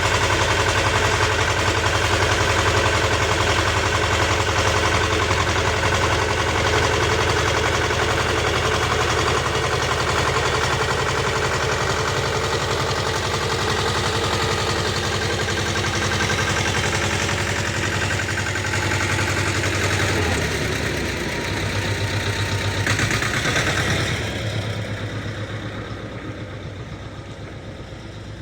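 Motor cultivator's engine running steadily while rotary-tilling soil. About twenty seconds in its pitch drops, and from about four seconds before the end it gets steadily quieter.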